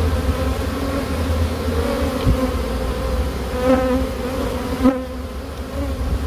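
Honeybees from an opened wild colony buzzing steadily in a dense swarm, with single bees swelling louder as they pass close by, about four and five seconds in.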